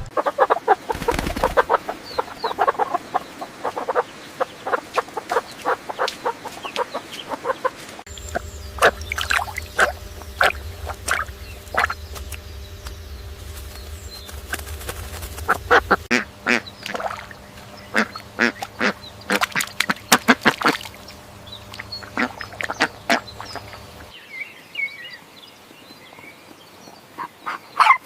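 Ducks quacking, many short calls in quick runs.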